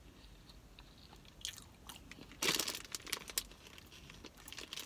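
Close-up mouth sounds of chewing and biting a burrito coated and filled with crunchy Flamin' Hot Cheetos, crunching in short clusters. The loudest crunching comes about two and a half to three and a half seconds in.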